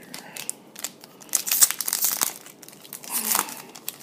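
Plastic wrapper of a trading card pack crinkling and tearing as it is handled and opened by hand, in two loud bursts, the first about a second in and the second near the end.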